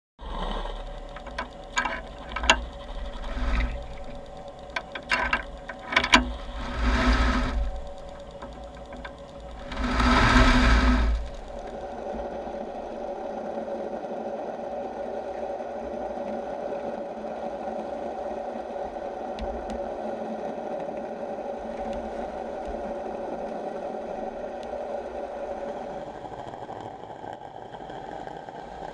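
Several knocks and a few loud rushing bursts, then from about twelve seconds in a steady mechanical hum of a motor with a fixed whine.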